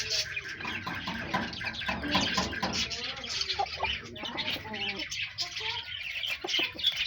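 Many birds chirping and calling at once, a dense chatter of short overlapping calls.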